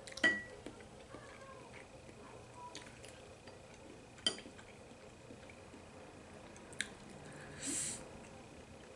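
Quiet eating sounds: a few light clinks of chopsticks against a bowl, the loudest about a quarter second in with a brief ring, and a short breathy hiss near the end.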